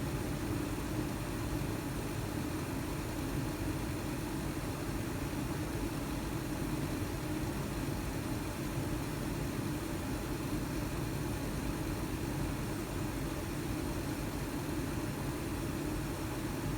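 Carrier gas furnace's draft inducer motor running with a steady, unchanging drone: the weird noise that the owner puts down to the inducer motor.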